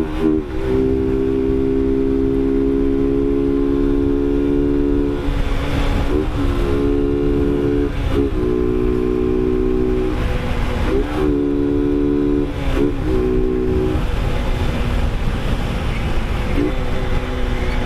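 Motorcycle engine running at a steady cruising pitch, with low wind rumble on the microphone. The pitch breaks and shifts briefly several times as the throttle or gear changes.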